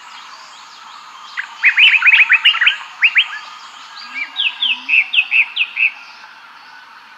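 A songbird singing: a quick run of rising chirps, then a short series of falling notes, over a steady background hiss.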